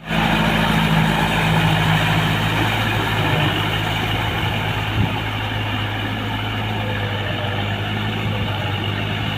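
Kubota MU4501 tractor's four-cylinder diesel engine running steadily, with a single knock about five seconds in.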